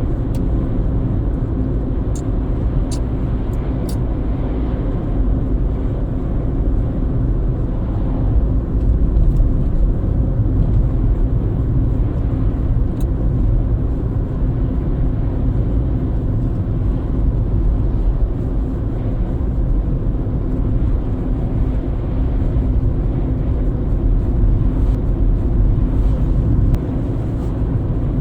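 Car driving steadily, its engine and tyre rumble making a continuous low drone.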